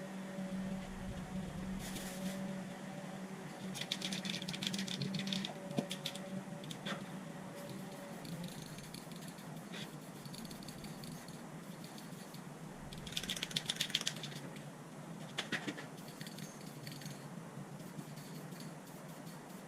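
Aerosol spray can being shaken, the mixing ball rattling in two main bursts of fast clicks, with a few shorter rattles between them. A steady low hum runs under the first half.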